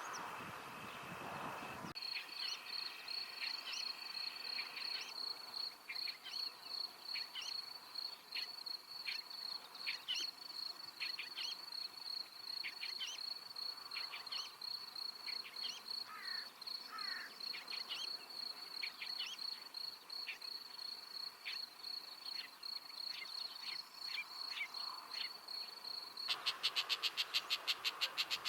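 Lesser grey shrike singing: scattered short, high chirps and squeaks over a continuous high, fast-pulsing trill in the background. About two seconds before the end a louder, fast, even rattling pulse train starts.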